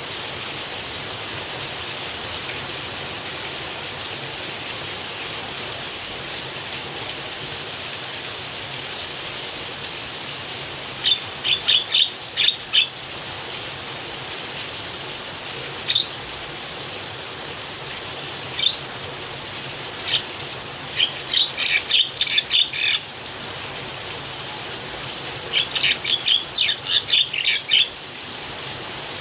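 Steady hiss of falling rain. After about eleven seconds a Javan myna breaks in with several bursts of rapid, sharp, chattering calls, each burst a second or two long, louder than the rain.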